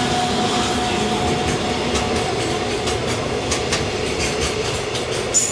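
Freight train of container flatcars rolling past behind a JR Freight EF210 electric locomotive: a steady rumble of wheels on rail, with repeated clicks as the wheels cross rail joints. A brief high screech near the end.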